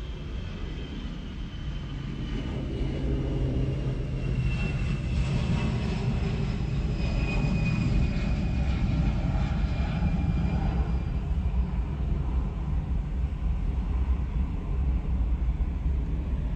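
Airplane flying past: a low rumble that builds over the first several seconds and then holds, with a high whine that slowly falls in pitch.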